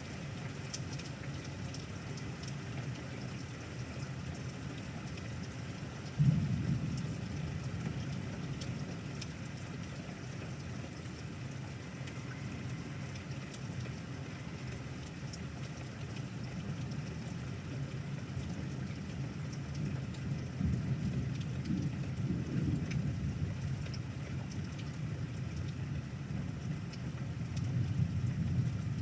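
Steady rain in a thunderstorm, with a sudden clap of thunder about six seconds in that fades into a rumble, and further low rumbles of thunder later on.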